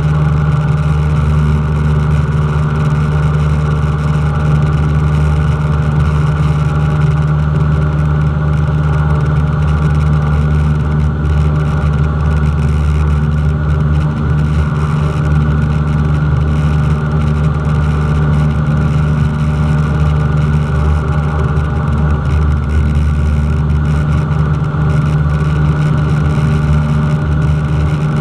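Cessna 172's piston engine and propeller running steadily at constant power, a loud, even drone with no change in pitch.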